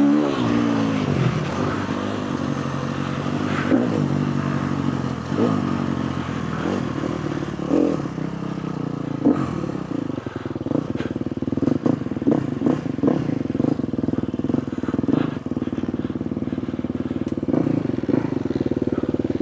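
Four-stroke KTM motocross bike engine, revs falling away at the start, then running at low, steady revs as the bike rolls slowly. Short rattling knocks come through from about halfway on.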